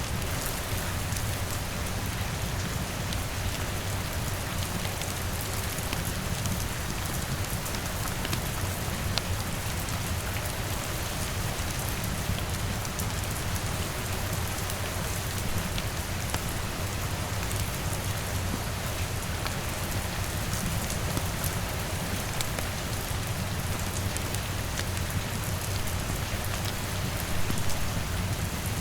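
Steady rain falling on a window, with a low steady rumble underneath and scattered small pops of a crackling wood fire.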